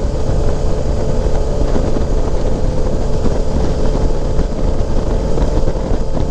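Suzuki V-Strom motorcycle running at a steady road speed, its engine tone held level under a heavy low rumble of wind on the microphone.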